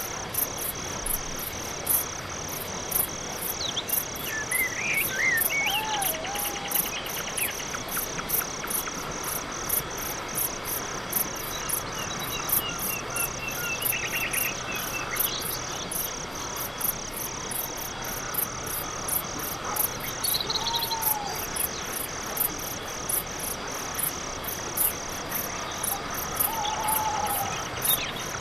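Crickets chirping in a steady, even rhythm of high pulses, with a few faint gliding calls and short trills of other night animals now and then.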